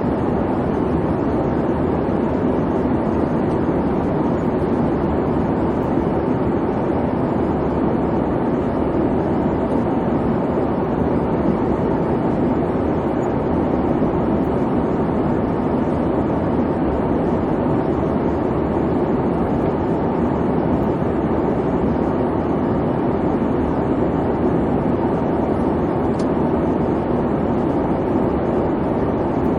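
Steady airplane cabin noise in flight: an even, low rumble and hum of engines and airflow, with no changes or distinct events.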